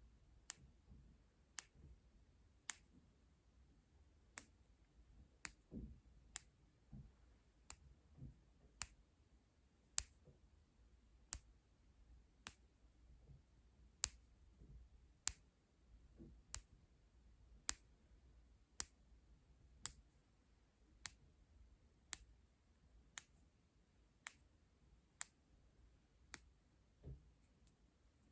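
Light, sharp clicks at a slow, fairly even pace of about one a second, made close to the microphone as an ASMR sleep trigger.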